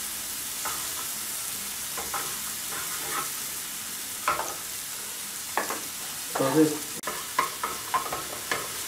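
Chopped onion and garlic sizzling in oil in a stainless steel frying pan, stirred with a wooden spoon that scrapes the pan now and then: the onion-and-garlic base (aderezo) frying.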